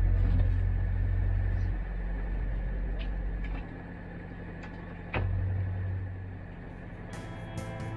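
Wind buffeting the microphone in gusts: a heavy low rumble that eases about two seconds in, drops again a little later and surges back about five seconds in. Music with plucked notes comes in near the end.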